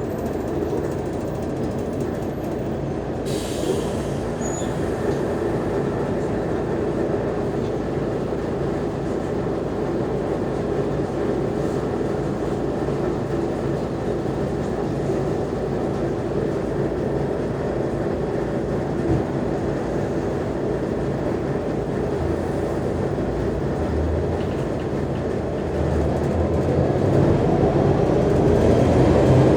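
Mercedes-Benz O345G articulated bus's diesel engine and drivetrain running steadily under way, growing louder about 26 seconds in as it pulls harder.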